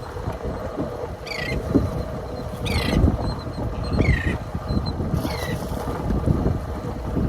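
Wind and water buffeting a small fishing boat offshore, a choppy low rumble with a faint steady hum underneath. Short high-pitched falling chirps break in about five times, roughly a second apart.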